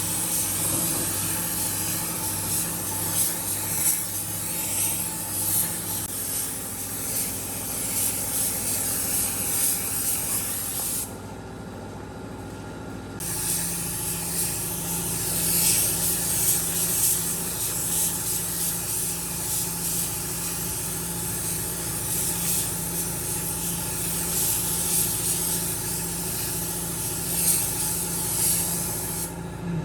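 Air spray gun hissing as it sprays, with a motor humming steadily underneath; the spray stops for about two seconds near the middle and again just before the end.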